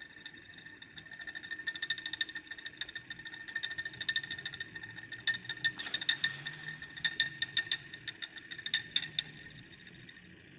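Magnetic stirrer running with a steady high whine over rapid, irregular clicking that builds and fades. A short hiss comes about six seconds in.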